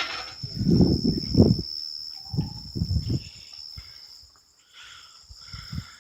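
Crickets trilling in a steady high drone, with bursts of low thuds about a second in and again near three seconds.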